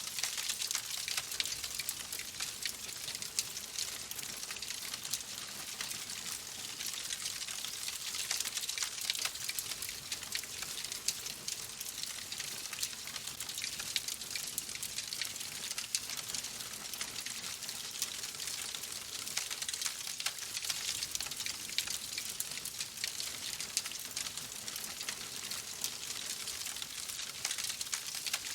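Wood fire crackling in a fireplace: a steady hiss with many small, rapid pops and snaps that never stop.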